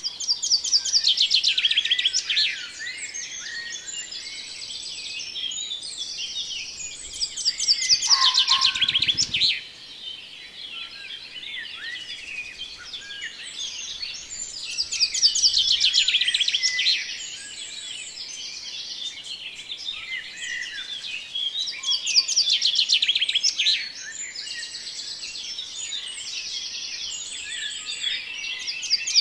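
Several songbirds singing and chirping together, with a loud burst of rapid trilled song about every seven seconds and quieter chirps between.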